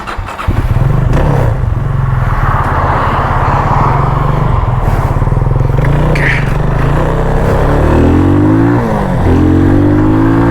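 Motorcycle engine running under way, then accelerating: its pitch climbs over the last few seconds, drops once at a gear change and climbs again.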